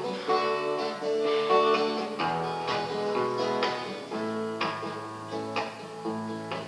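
Acoustic guitar playing an instrumental interlude between sung verses of a song, plucked notes and chords.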